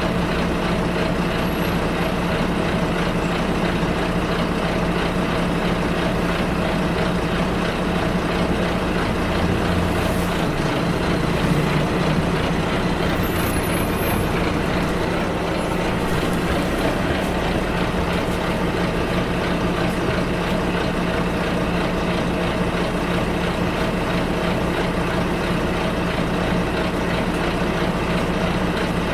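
Steady engine hum and road noise inside a moving bus, with a brief swell in the low engine note about ten seconds in.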